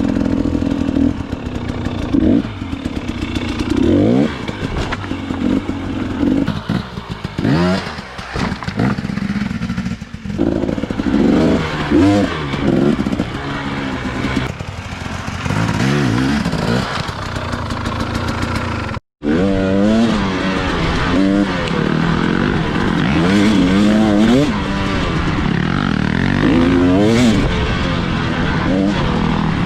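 Dirt bike engine revving up and falling back again and again as it is ridden through the woods, with knocks and rattles from the bike over rough ground. The sound cuts out for a moment about two-thirds of the way through, then the riding goes on.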